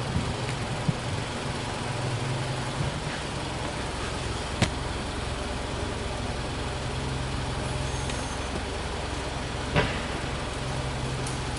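Mitsubishi Delica D:5's engine idling steadily at its exhaust, a low even hum. A sharp click cuts in about halfway through and a louder knock comes near the end.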